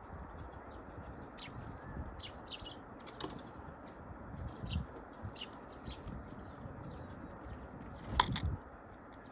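Small birds chirping, short high calls scattered throughout, with a sharp knock about eight seconds in.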